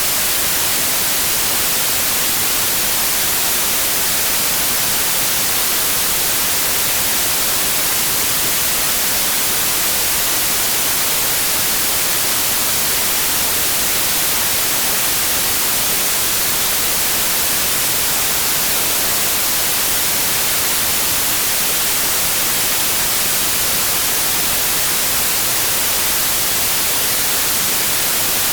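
Steady white noise: an even, unbroken hiss with most of its energy in the high end, no tones or rhythm.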